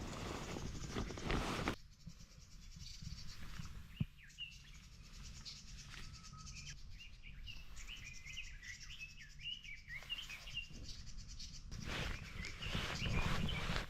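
Small birds chirping in a series of short, quick calls. Rustling handling noise opens the stretch and comes back near the end, with a single sharp click in between.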